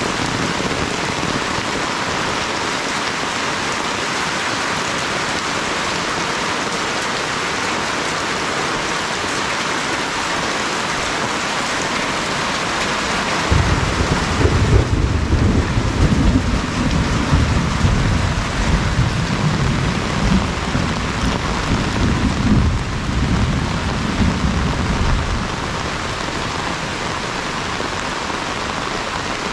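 Steady rain falling, with a long, low rumble of thunder that comes in about halfway through, swells and ebbs for about twelve seconds, then stops.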